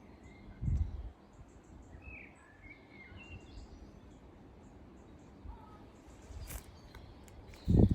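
Small birds chirping faintly and sparsely over a low outdoor background noise, with a low thump about a second in and a louder one near the end.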